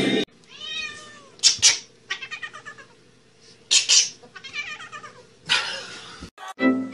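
A cat meowing and yowling in several drawn-out calls, broken by short, harsh noisy bursts, two of them close together about a second and a half in and again near four seconds.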